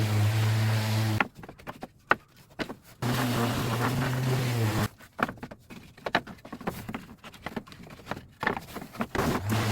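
A small motor hums steadily in spells of one to two seconds, stopping twice, with scattered clicks and knocks in the pauses.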